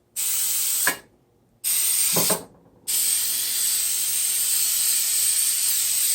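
Aerosol coconut-oil cooking spray hissing from the can: two short bursts, then one long continuous spray.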